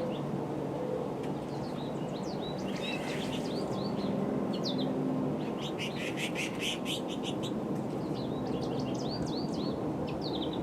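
Small songbirds chirping and twittering, with a quick run of sharp notes about six seconds in, over a steady low background rumble.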